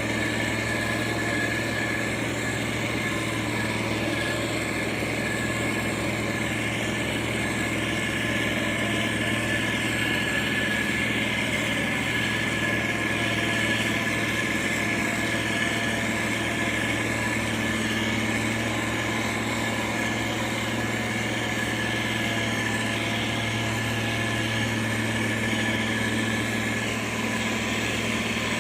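Diesel engine of a heavy road-construction machine running steadily at an even pitch, with a thin steady high whine above the engine note.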